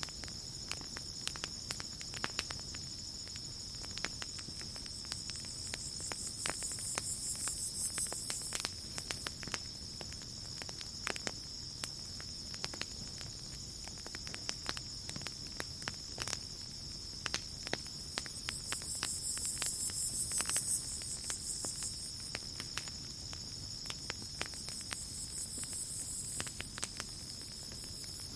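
Campfire crackling, with frequent sharp pops at irregular intervals. Under the fire runs a steady high-pitched trill of night insects, and a higher insect buzz swells three times: about a quarter of the way in, around two-thirds through, and near the end.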